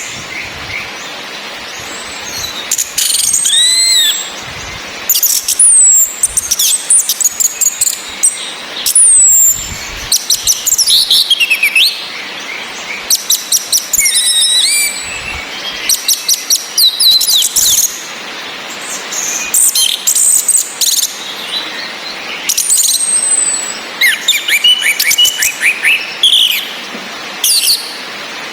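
Orange-headed thrushes calling and singing: sharp high 'cis' notes in rapid runs and short downslurred whistles, coming in bursts over a steady rain hiss.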